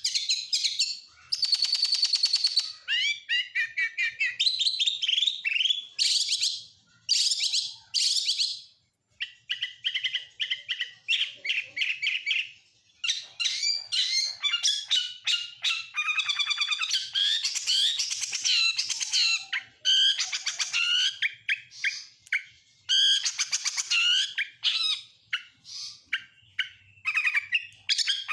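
Oriental magpie-robin singing a long, varied song of rapid high-pitched phrases, trills and whistled glides, laced with mimicked calls of other birds such as lovebirds, canaries and prinias, with a couple of brief pauses.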